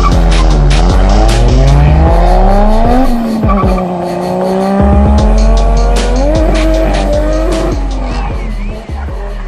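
Drift car engine revving up and down hard, with tires squealing as it slides, over music with a heavy bass. The engine falls away near the end.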